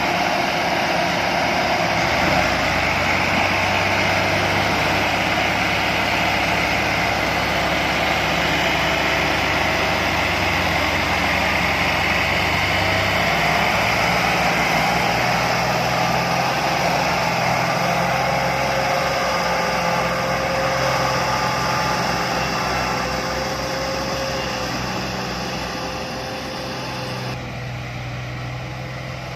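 Massey Ferguson 240 tractor's three-cylinder diesel engine running steadily, its engine speed rising a little about halfway through, then growing quieter near the end.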